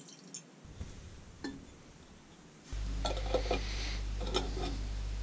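Light metallic clinks and rattles of a small rusty compressor spring being handled in a container for an acid bath, over a steady low hum that starts about two and a half seconds in.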